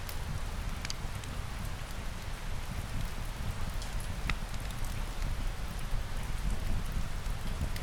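Steady rain falling: a continuous even hiss over a deep low rumble, with a few sharp ticks scattered through.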